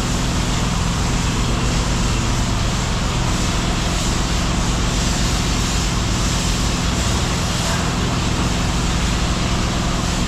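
An engine running steadily at a constant speed, with an even low hum under a broad noise.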